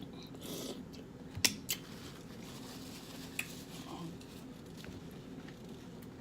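Handling and eating a seafood boil: a few sharp clicks and taps, with a brief rustle about half a second in, over a steady low hum.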